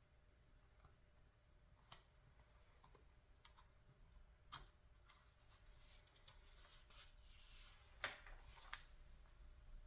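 Faint handling and turning of a paper catalog's pages: a few sharp paper clicks, the loudest about eight seconds in, and a soft paper rustle from about five to eight seconds in as a page slides over.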